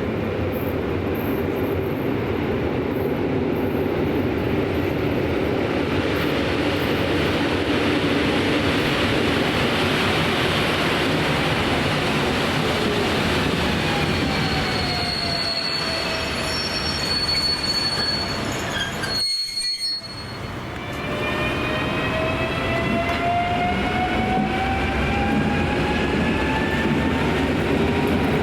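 Electric train running on the rails with continuous wheel-on-track noise. Its traction motors whine in several stacked tones that fall in pitch, then rise again after a brief drop in level about twenty seconds in. A high steady squeal sounds for a few seconds around the middle.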